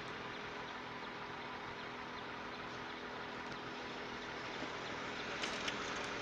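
Vehicle engine idling with a steady hum, with a few short clicks about five and a half seconds in.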